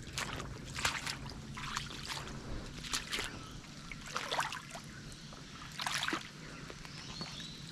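Footsteps crunching on gravelly dirt: short, scattered crunches at an uneven, slow pace, over a low steady background hiss.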